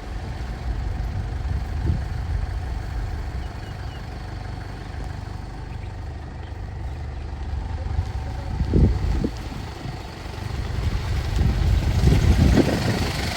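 Low rumble of a safari jeep driving on a dirt track, with a couple of jolts about nine seconds in and a louder stretch near the end.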